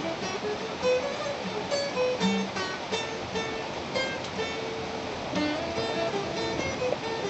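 Guitar playing a melody in single plucked notes that ring on after each pluck.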